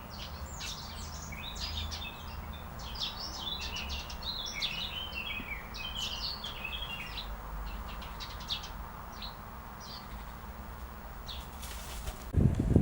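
Birds chirping and twittering in many quick, high chirps, thick at first and thinning out over the last few seconds. Just before the end a loud rush of wind noise comes in.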